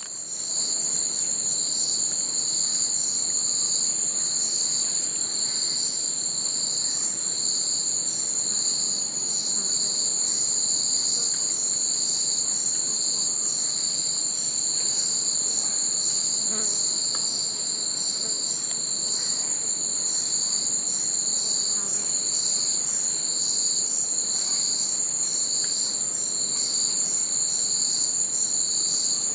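Chorus of insects: two steady, high-pitched trills with a lower trill beneath that pulses evenly, a little faster than once a second.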